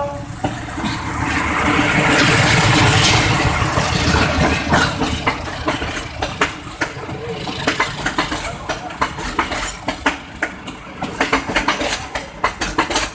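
Diesel passenger train passing close by: the locomotive's engine running, then the wheels clicking over rail joints in a quick, irregular run of clacks from about four seconds in.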